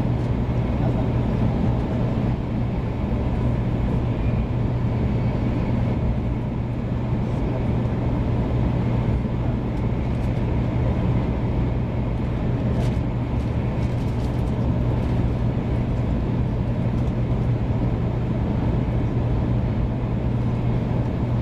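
500 series Shinkansen train running steadily, heard from inside the passenger cabin as a continuous low rumble and rushing hiss, with a few faint ticks about halfway through.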